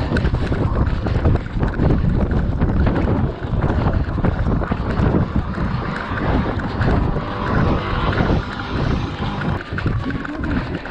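Wind rumbling on a GoPro's microphone worn by a running runner, mixed with irregular thuds from footfalls and the camera jolting.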